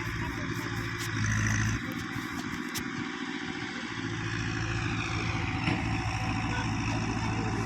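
Tractor diesel engine running; it gets louder for a moment about a second in, eases off, then settles back to a steady run.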